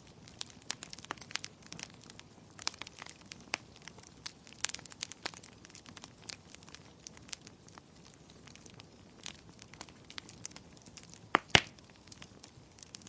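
Wood fire crackling in a fireplace: many small irregular pops and snaps over a faint hiss, with a louder double pop near the end.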